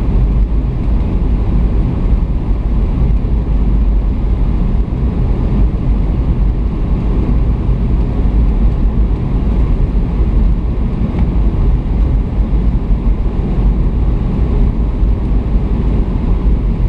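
Steady low rumble of a Boeing 757 in flight, heard from inside the passenger cabin: engine and airflow noise.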